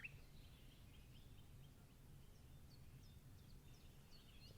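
Faint birds chirping over a very quiet nature-ambience background: short, high chirps that come more often toward the end.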